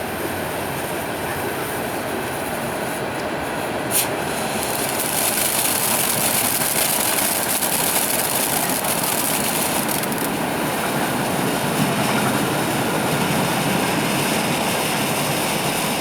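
Ground firework fountain burning with a steady hiss of spraying sparks. There is one sharp pop about four seconds in, after which the hiss grows louder and runs on steadily.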